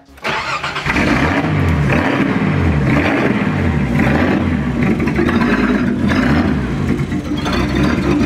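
A Datsun Z-car's engine running and being revved, loud from about a second in, its pitch rising and falling again and again.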